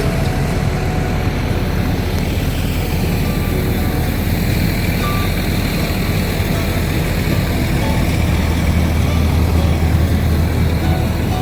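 Steady rumble and road noise of a motor vehicle on the move, even in level throughout.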